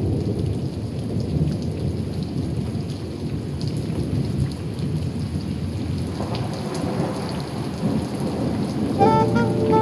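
Steady heavy rain with a deep rumble of thunder underneath. Music comes in near the end.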